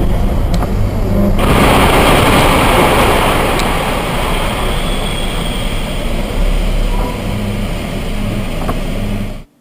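Motor vehicle noise: a steady low rumble with a broad hiss that rises sharply about a second and a half in, cutting off suddenly near the end.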